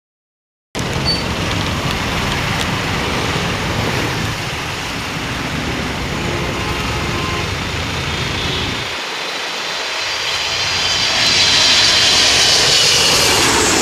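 Jet airliner noise from a Boeing 777's turbofan engines: a steady rumble at first, then a high, layered whine that swells from about ten seconds in and is loudest near the end as the aircraft comes closer.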